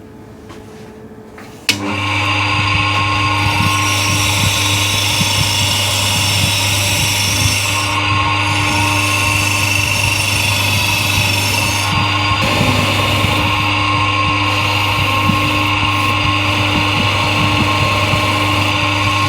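Power tool spinning a Scotch-Brite abrasive wheel, starting up sharply a couple of seconds in and then running steadily with a constant hum under a loud scratchy scrubbing as it cleans between the cylinder head's fins. The scrubbing eases briefly a couple of times as the wheel moves over the work.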